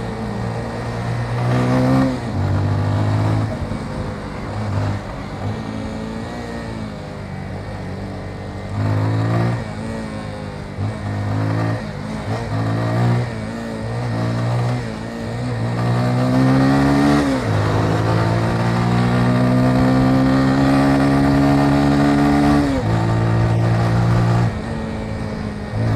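Motorcycle engine pulling through the gears: the revs climb and drop at each shift several times, then hold steady for about five seconds. Near the end they drop and climb again.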